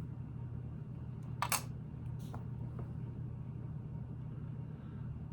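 Plastic Lego plates being handled: one sharp click about one and a half seconds in, then two fainter clicks, over a steady low room hum.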